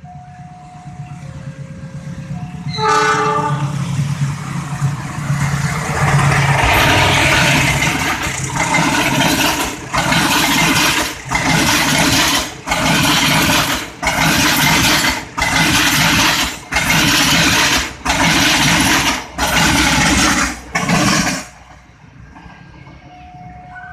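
A train sounds a short horn blast, then approaches and passes the level crossing: the rumble swells and then pulses evenly, about one loud surge every second and a half as each carriage goes by, and stops abruptly near the end. Faint alternating steady tones can be heard at the start and after the train has gone.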